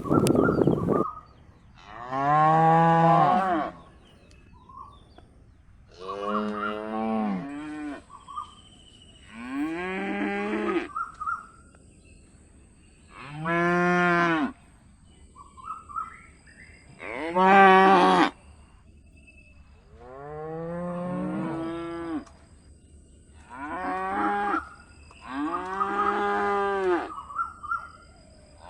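Calf mooing: about eight drawn-out calls of one to two seconds each, separated by short pauses, each call dropping in pitch at its end. A rush of noise, like wind on the microphone, fills the first second.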